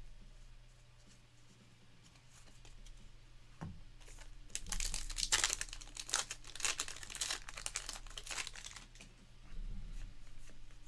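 Trading-card pack wrapper being torn open and crinkled: a dense crackling that starts about four seconds in and lasts around four seconds, after a single click.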